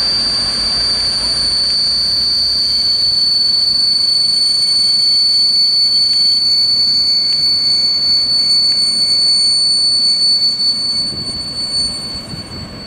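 Passenger train's carriages rolling away over the rails with a steady, high-pitched wheel squeal; the noise fades over the last couple of seconds.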